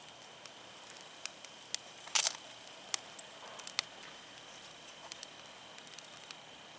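Wood campfire crackling, with scattered sharp pops and a louder burst of crackle about two seconds in.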